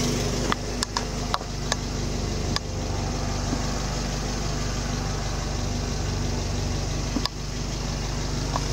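Car engine idling steadily, running normally again after a spell of rough, shaking running with black smoke. A few short sharp clicks sound over it in the first few seconds and once more about seven seconds in.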